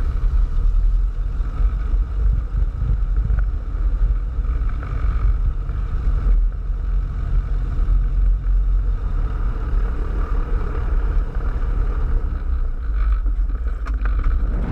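Cessna 172's piston engine running steadily at low taxi power, heard from inside the cabin as a continuous drone.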